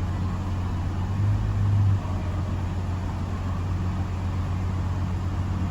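2009 Honda Accord 2.4-litre four-cylinder engine idling right after the throttle is let off from about 1400 rpm, settling back to idle with a steady low hum that swells briefly about a second in. The engine is being checked for a misfire at idle on cylinders 2 and 3.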